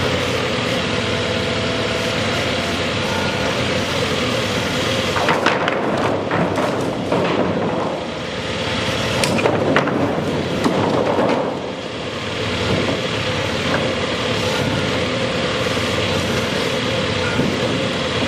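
Heavy machinery running steadily, with a burst of knocks and clanks in the middle.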